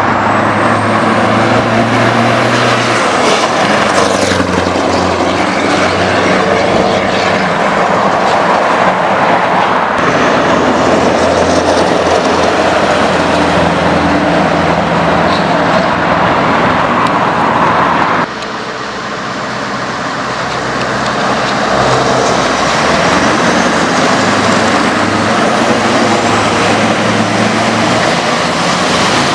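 Scania R500's V8 diesel engine running, its note stepping in pitch a few times. It drops suddenly in loudness about two-thirds of the way through, then builds back up over a few seconds.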